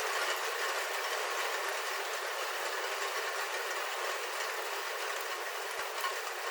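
Steady rain falling on a roof, heard from inside: a dense, even patter with a few faint ticks near the end.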